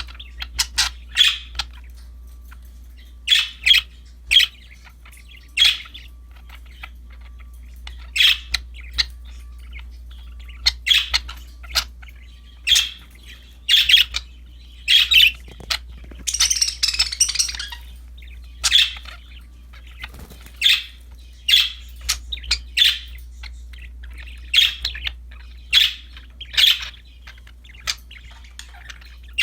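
Budgerigars chirping, short sharp calls again and again, with a longer, harsher squawking stretch about halfway through.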